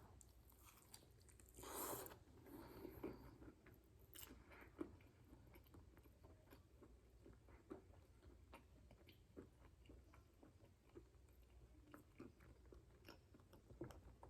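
Faint chewing of a fried-chicken sandwich on a glazed donut bun, with many small, scattered mouth clicks and a short louder rustle about two seconds in.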